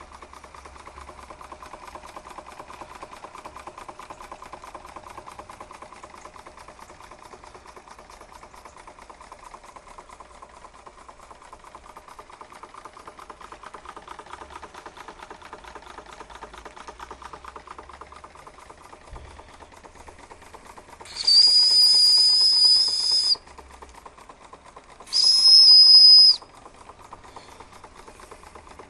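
Märklin toy live-steam engine running with a fast, steady chuff. About three quarters of the way through, a high steam whistle blows twice, once for about two seconds and then briefly.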